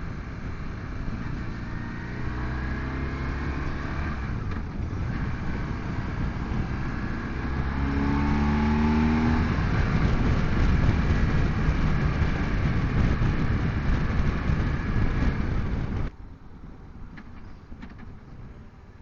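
BMW touring motorcycle engine running under way, with road and wind noise. It pulls harder about halfway through, rising in pitch as it accelerates, then cuts off sharply to a much quieter background.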